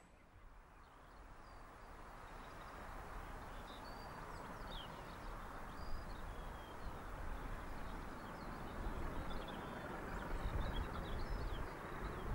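Birds chirping over a steady outdoor rush of background noise that gradually grows louder.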